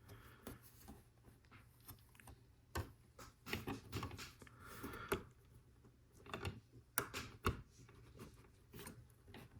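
Plastic LEGO Technic pieces being handled and pressed together: faint scattered rustling and clicking, with several sharper clicks spread through it.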